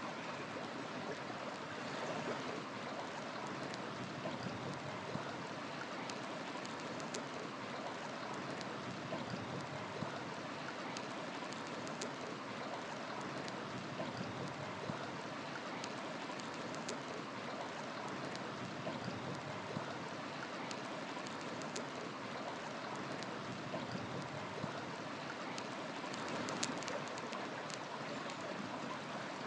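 A river flowing steadily, with scattered sharp pops and crackles from a wood fire burning.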